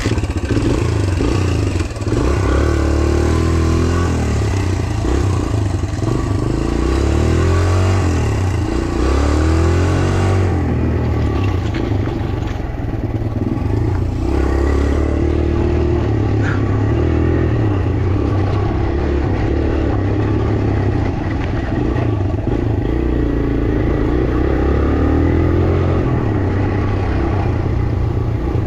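Small four-stroke single-cylinder dirt bike ridden on a motocross track, its engine revving up and dropping back again and again through throttle changes and shifts.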